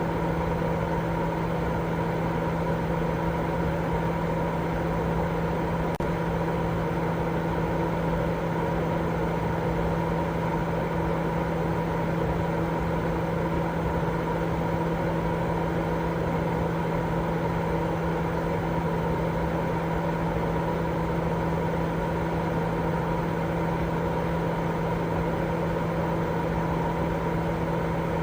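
Steady, unbroken white-noise sleep sound, heavier in the low end, with a constant low hum running through it.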